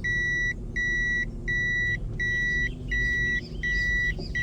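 Car's reverse warning beeper sounding a steady series of high beeps, roughly three every two seconds, over the low running of the engine while the car backs up to turn around.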